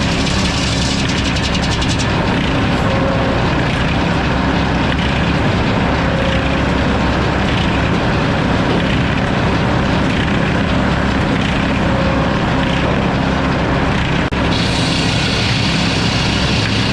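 Sawmill running steadily, with a low, even engine-and-saw drone. A momentary break comes about three-quarters of the way through, after which the sound is hissier.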